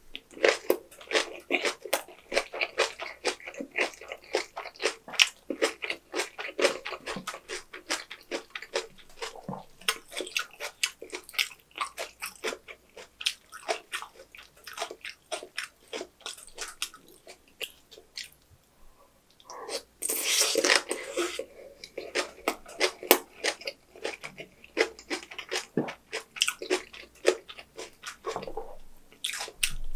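Close-miked chewing and crunching of napa cabbage kimchi with rice: rapid, wet crunches with many short clicks. About twenty seconds in, a louder sustained noise lasts a second or two.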